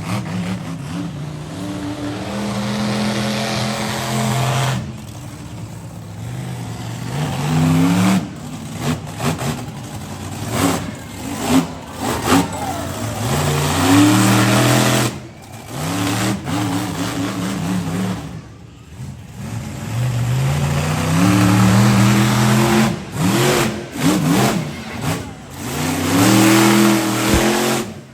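Monster truck engine revving hard in repeated bursts. The pitch climbs, holds at high revs, then drops away when the throttle is lifted, again and again, with brief sudden dips in between.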